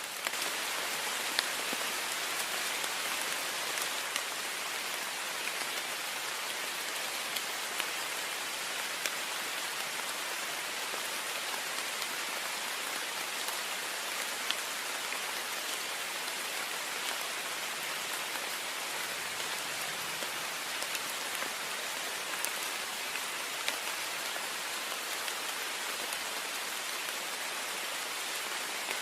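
Heavy rain falling steadily against a window pane: a dense, even hiss of rain with scattered individual drops ticking on the glass.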